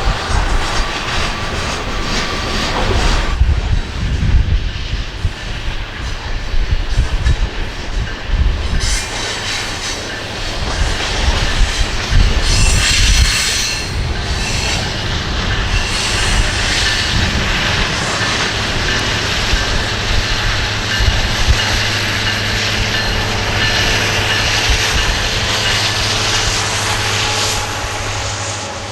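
Coal train rolling past: freight-car wheels clacking over the rails with some squealing, over a continuous heavy rumble.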